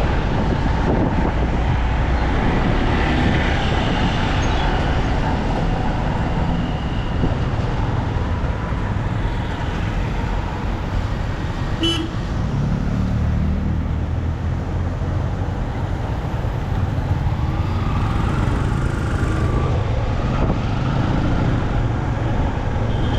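Motorcycle riding through city traffic: steady engine and road rumble, with vehicle horns honking a few times.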